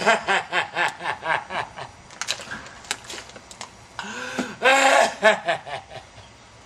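A person laughing: a quick run of 'ha' pulses, then a second burst of laughter about four seconds in.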